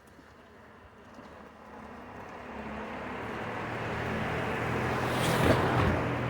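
A motor vehicle approaching along the street and driving past, its engine hum and tyre noise building steadily and loudest about five and a half seconds in, then starting to fade.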